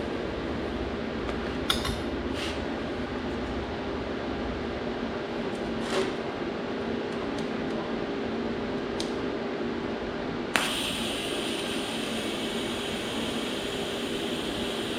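Steady machine hum of a workshop, like a fan running, with a few light metal clicks and taps. About ten and a half seconds in, a sharp click, then a louder steady hiss starts and keeps going.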